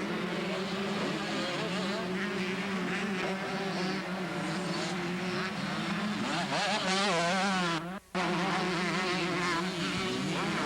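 Two-stroke motocross bikes racing: several engines revving up and down at once. The sound briefly cuts out just under eight seconds in.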